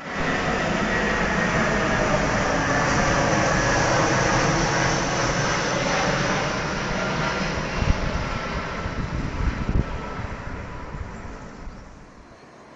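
Jet airliner's engines passing close by, a loud steady rush with a thin turbine whine, fading away over the last few seconds. A couple of low thumps stand out partway through.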